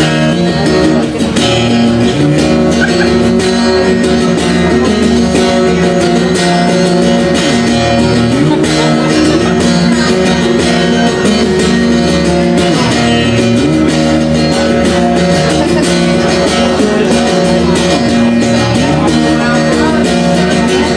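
Guitar music played live: a guitar strummed and picked, with frequent short strokes.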